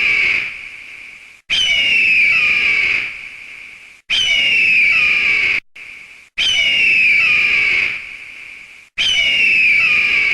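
A shrill animal scream with falling pitch. The identical call repeats about every two and a half seconds, four times, each one starting and cutting off abruptly.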